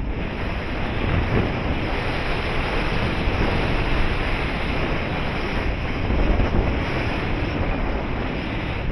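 Steady rushing of airflow buffeting the microphone of a paraglider in flight, with low rumbling gusts.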